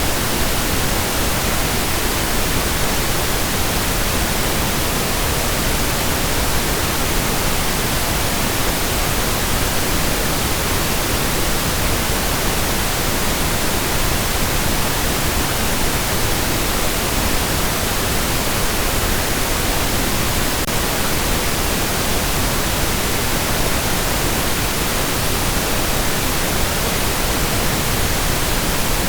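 Steady, unchanging pink noise: an even hiss spread across all pitches, with no events in it.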